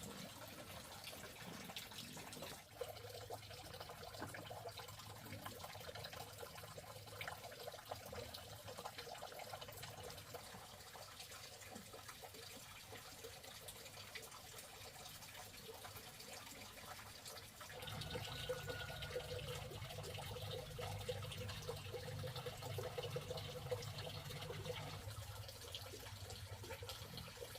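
Running water trickling and dripping, as from a tap. A low steady hum comes in about two-thirds of the way through.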